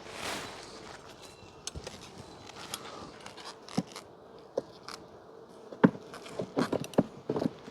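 Wooden hive frames and a hive tool clicking and knocking against the hive box as frames are handled, with a brief swish at the start and the knocks coming thicker and louder in the second half.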